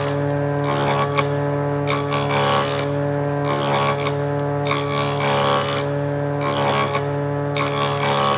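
A power tool's motor running with a steady hum, while its cutter or abrasive rasps against wood in irregular strokes that come and go.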